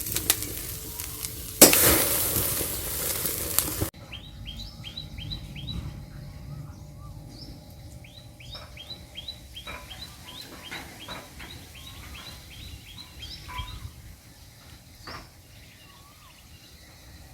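Food sizzling loudly in hot oil for about four seconds, cut off abruptly. Then birds chirping: a long run of quick, short, falling chirps that thins out near the end.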